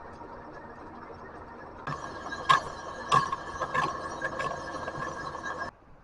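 Machine tool running on a forklift rim, a steady motor whine. About two seconds in it grows louder, with a sharp tick about every 0.6 s, then cuts off suddenly near the end.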